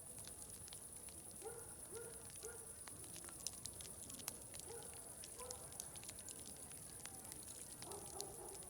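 Wood fire crackling with scattered sharp pops, under a steady faint hiss. Faint distant voices come through in short snatches a couple of times.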